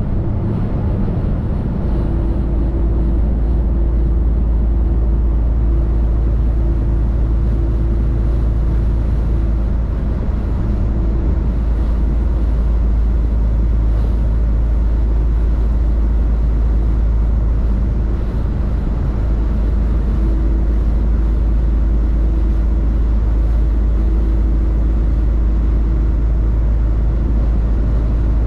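Truck driving down the road: a steady low engine and road rumble, with a faint steady hum that comes in twice for several seconds at a time.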